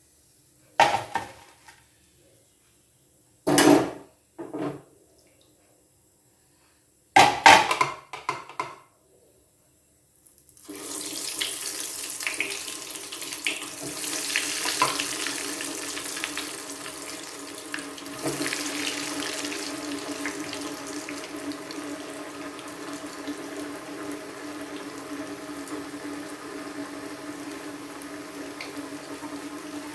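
A few short clatters of a utensil against a pan, then about ten seconds in a steady hiss of bread rolls frying in hot oil sets in and carries on.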